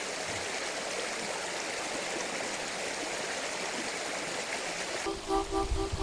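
A mountain stream running, a steady rush of water. About five seconds in it cuts off suddenly and background music with a rhythmic beat and repeated notes begins.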